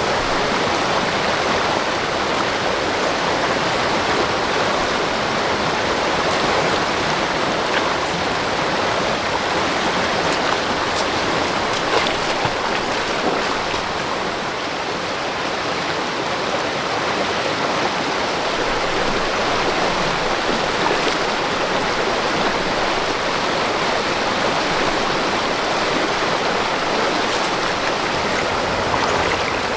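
Steady, loud rushing of water, unbroken throughout.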